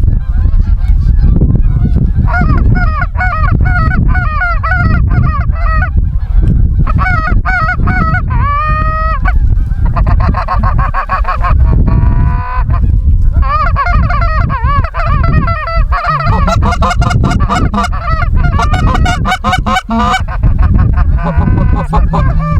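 Many snow geese calling at once: a continuous clamour of overlapping high-pitched honks.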